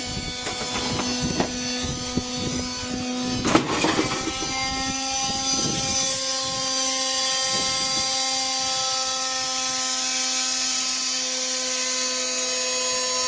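Washing machine running, its motor humming steadily under a rising high whir as the drum spins. There are several sharp knocks in the first few seconds, the loudest about three and a half seconds in, from a brick tumbling in the drum.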